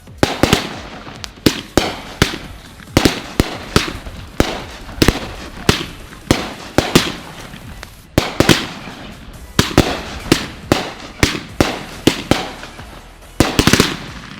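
Consumer fireworks going off in quick succession: a steady string of sharp bangs, two or three a second, from firework cakes and mortar shells, with a short lull about halfway through.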